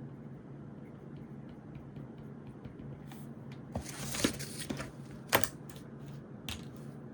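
Desk sounds of studying with pencil and paper: small scattered taps and ticks, a paper rustle about four seconds in, and a sharp click a little after five seconds, over a low steady hum.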